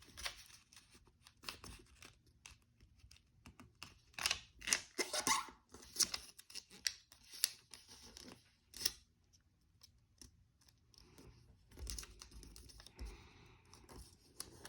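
A square of origami paper being folded by hand and creased flat: crisp crackles and scrapes of paper, coming in clusters, busiest in the middle.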